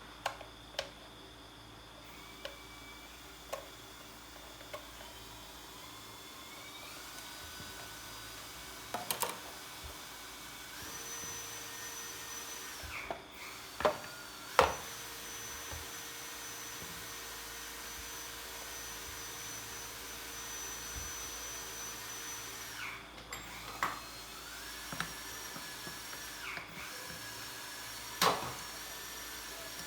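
Small electric motor whining, its pitch stepping up and then back down as its speed changes, with several sharp clicks and a few brief dropouts.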